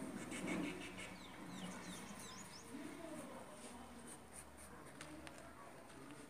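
Faint bird calls: a quick run of short, high chirps from about one to three seconds in, with a few lower calls around them.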